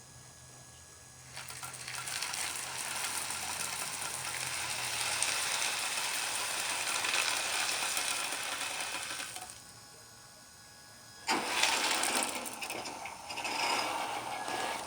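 Radio-controlled model construction machine running its motors and gears in two spells: a steady run with a low hum through the first part, a pause, then a sudden louder start about 11 seconds in.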